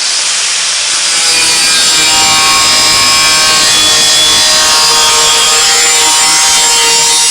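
Angle grinder with a cutting disc running steadily as it cuts through overlapping sheet-steel patch panels, opening a gap of about 2 mm so the joint can be butt-welded.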